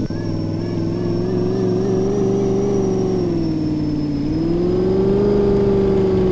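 Truck engine running steadily, its pitch sagging about four seconds in and then climbing again.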